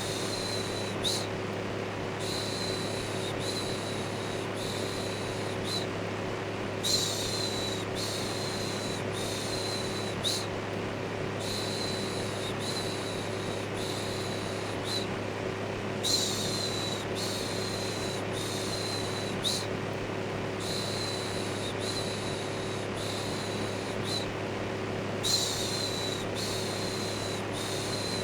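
Steady electric fan drone with a low hum, overlaid by a repeated 'shhh' shushing sound. The shushes come about once a second in short runs separated by brief pauses.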